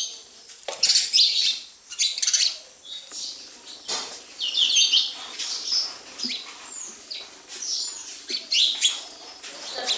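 Sparrows chirping: irregular bursts of short, high chirps, several times a second within each burst, with brief gaps between.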